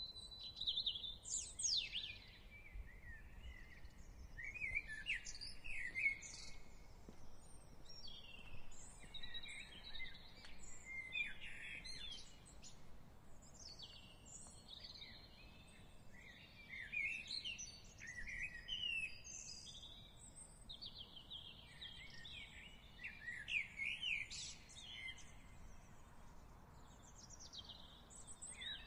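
Several songbirds singing and chirping in quick, overlapping phrases, over faint steady low background noise.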